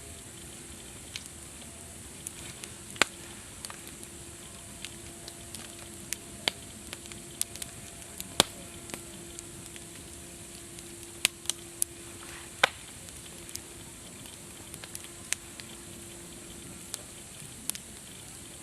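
Campfire crackling: a steady hiss of burning wood broken by irregular sharp pops and snaps, a few of them much louder than the rest.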